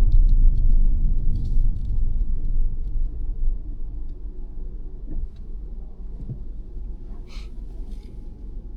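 Low road and engine rumble inside a 2022 Mazda 3's cabin, getting steadily quieter, with a few faint clicks early on and a short hiss near the end.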